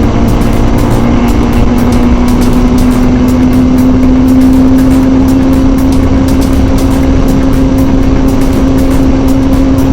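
2006 Kawasaki ZZR600's inline-four engine running at highway speed. Its pitch rises slightly over the first few seconds and then holds steady, under a heavy rush of wind on the microphone.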